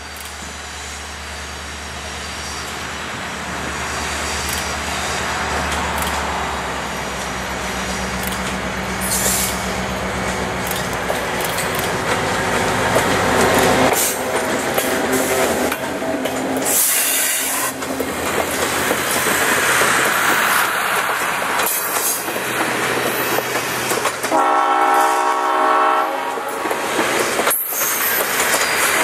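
Diesel locomotive running and getting louder as it approaches, then passing close by, followed by the steel wheels of the passenger cars and caboose rolling and clicking over rail joints. A multi-tone train horn sounds for a couple of seconds near the end.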